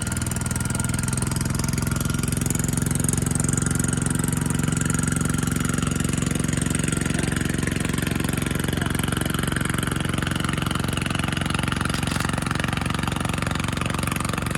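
A small engine running steadily at an even speed, loud and close.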